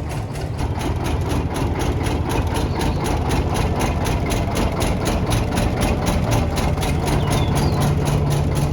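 Slow-running engine idling with an even beat of about four to five strokes a second; a low hum grows stronger near the end.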